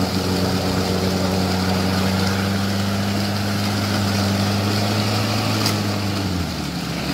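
Suzuki Jimny engine held at steady high revs while the 4x4 churns through deep mud with its wheels spinning; the revs drop about six seconds in.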